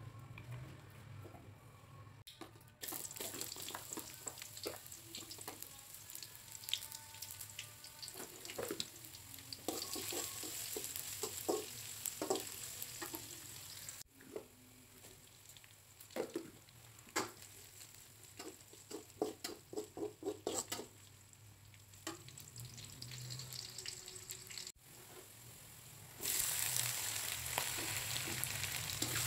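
Sliced shallots frying in hot oil in a wok, a steady sizzle with a metal spatula repeatedly scraping and tapping the pan. Near the end the sizzle gets louder as cubes of fried tofu go into the wok.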